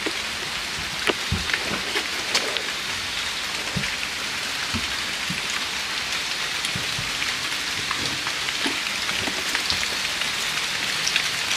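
Light drizzle falling steadily, a constant hiss of rain with scattered drops tapping and a few faint knocks.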